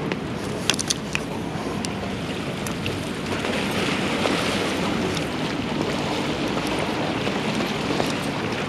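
Harbour ambience: a steady wash of sea water and wind noise with a low hum underneath, a few sharp clicks about a second in, and a swell of hiss around the middle.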